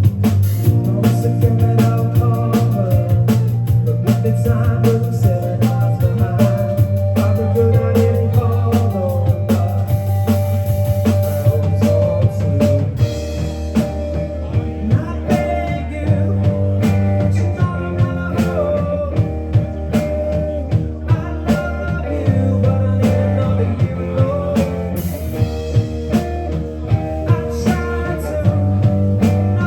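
Live rock band playing a song: electric guitars, bass guitar and drum kit, with singing.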